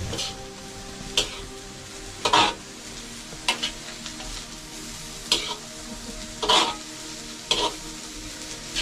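Food sizzling in a pan while being stirred, with a scraping stroke of the utensil against the pan about once a second.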